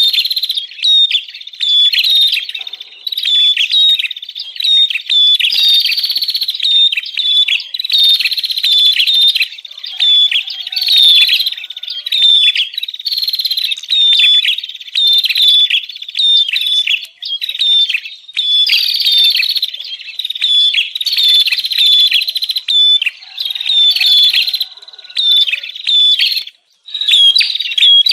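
Prenjak (prinia) calling agitatedly: a rapid, nearly unbroken run of sharp, high chirping notes, with only brief pauses. This is the 'ribut' (noisy, excited) call used as a lure for wild prenjak.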